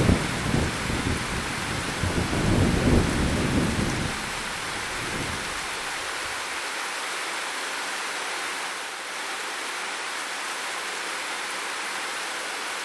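Steady heavy rain hissing, with a thunder rumble that rolls on and dies away over the first four seconds or so, leaving only the rain.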